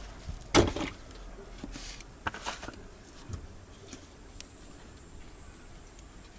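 A few knocks and scrapes from handling parts, the loudest about half a second in and another pair about two seconds later, then a few light clicks.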